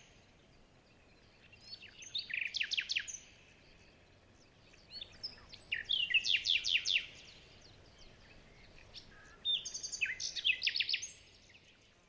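A small songbird singing: three short phrases of quick, high chirping notes, a few seconds apart.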